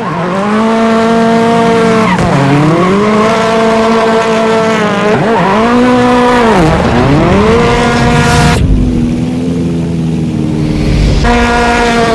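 Racing car engine sound running at a steady high pitch. It drops and swoops back up in pitch a few times, like gear changes or a car passing. For a couple of seconds in the second half it sounds duller, with its higher tones gone.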